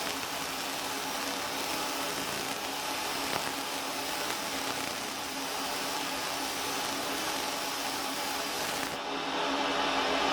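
Fiber laser engraving machine running: a steady whir with a low hum, like a fan or fume extractor. About nine seconds in it changes to a louder, harsher tone.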